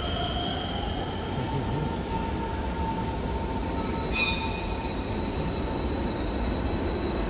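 Train in a large station hall: low rumble with a steady high whine that rises briefly near the start, and a short sharp squeal about four seconds in.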